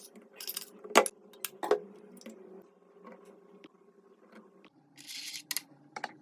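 Kitchen prep handling: a few sharp knocks of utensils or dishes on a surface, the loudest about a second in, with short scraping rustles near the start and again near the end.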